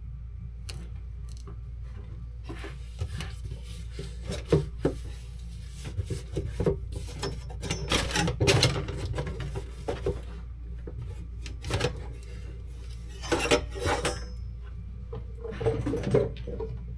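Metal parts and hand tools clinking, knocking and scraping irregularly as a steel bracket is worked into place on a skid steer, over a steady low hum.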